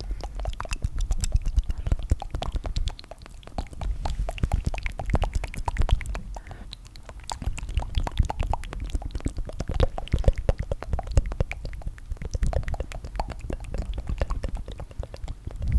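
Layered ASMR tongue fluttering: close-miked wet mouth clicks in rapid, dense crackling runs. They ease briefly about three seconds in and again around six to seven seconds.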